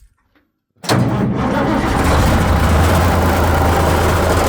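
Military 5-ton dump truck's diesel engine firing up at once about a second in, with no long cranking, then running steadily at idle. It starts easily, the sign of a healthy engine and good batteries.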